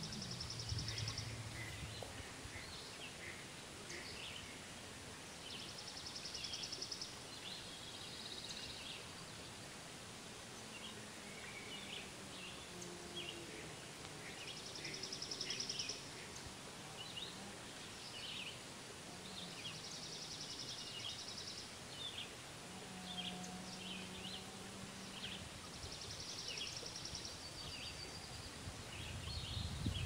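A songbird's trill, a fast run of even notes lasting one to two seconds, sung five times, with scattered short chirps from other birds in between.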